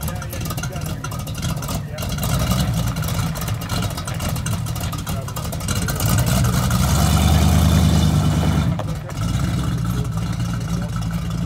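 Rat-rod hot rod's engine running with a deep, steady exhaust note as it moves off. It swells louder for about three seconds, starting about six seconds in as the rod pulls away, then drops back.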